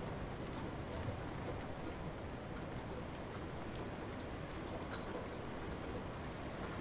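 Light rain falling steadily as an even hiss, with scattered single drops ticking through it.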